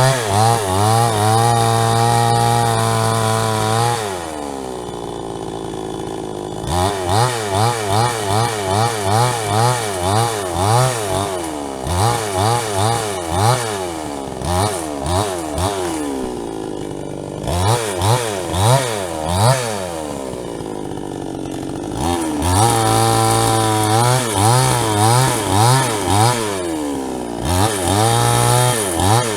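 JCK chainsaw with a 22-inch bar, a two-stroke engine, running hard at high revs, dropping to idle for a few seconds now and then, and surging up and down about once a second in between.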